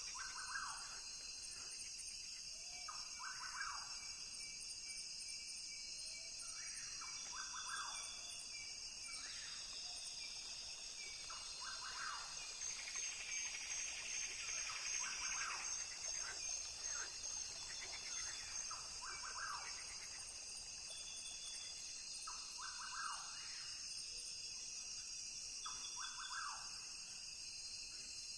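Rainforest ambience: a steady, high-pitched insect drone, with short bird calls repeating every few seconds. The chorus grows busier and a little louder in the middle.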